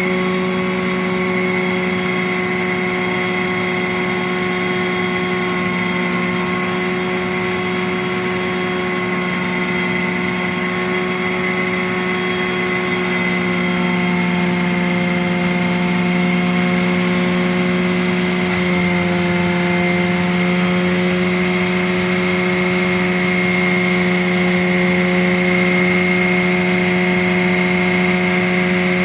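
An engine running at a steady speed, with a slight change in its tone about two-thirds of the way through.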